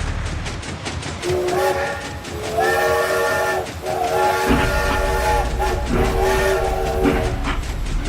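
Several long, steady blasts of a multi-tone horn over a regular clicking clatter.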